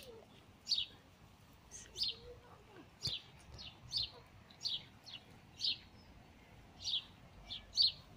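House sparrows chirping: short single chirps repeated every second or so.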